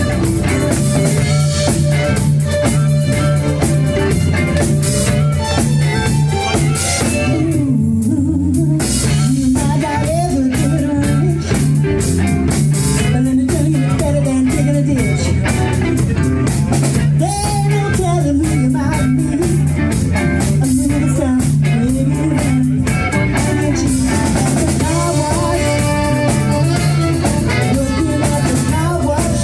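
Live band playing a funk-disco song amplified through a PA, with drum kit, guitar and a steady bass line. A singer's voice comes in over it through the middle part.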